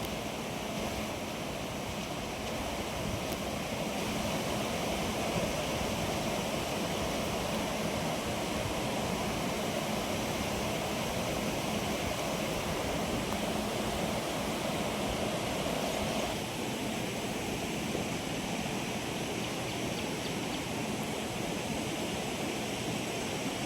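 Steady rushing of flowing water, like a stream, with a slight change in its tone about two-thirds of the way through.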